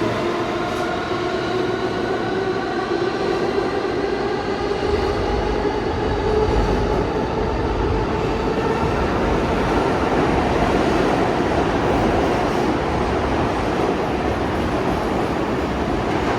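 New York City subway train running through the station, its motors whining in a stack of tones that rise slowly in pitch as it picks up speed, over a steady rumble of wheels on rail that grows louder about five seconds in.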